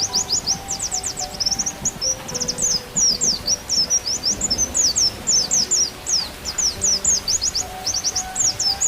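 White-eye (pleci) song: a fast, unbroken string of high chirps and short downward-slurred notes, played over a slow flute melody.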